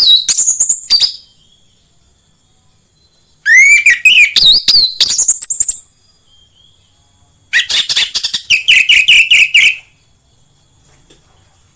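Orange-headed thrush singing loud phrases of rapid, sweeping notes, each phrase about two seconds long with pauses of a couple of seconds between: one ends about a second in, then two more follow.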